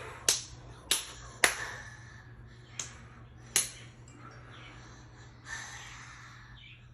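Five sharp hand snaps or smacks, irregularly spaced over the first few seconds, then a soft rush of breath about five and a half seconds in, over a steady low hum.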